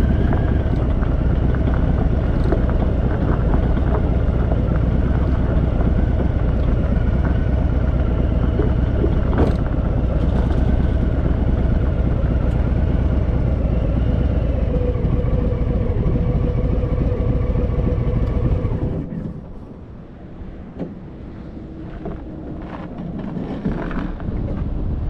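Harley-Davidson V-twin motorcycle engine running steadily. About nineteen seconds in it drops away to a quieter background of wind noise with a few faint knocks.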